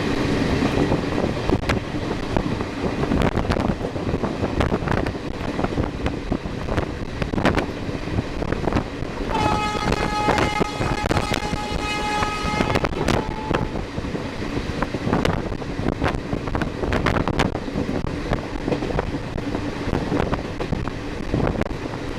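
Train hauled by a WAP-4 electric locomotive passing at speed: a steady rush with rapid clicks of wheels over rail joints. About nine seconds in, the locomotive's horn sounds once, a steady note held for about three and a half seconds.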